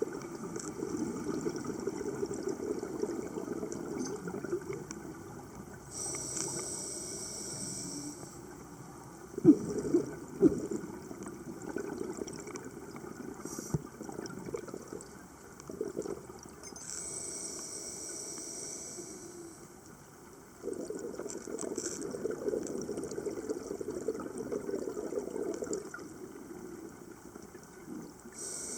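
Water sounds, trickling and bubbling, with a few sharp knocks about nine to ten seconds in. The sound changes abruptly several times.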